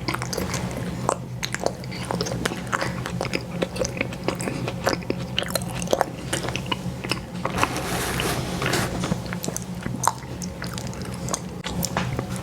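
Close-miked biting and chewing of ice cream sandwiches, with many sharp, irregular crunches and wet clicks, over a steady low hum.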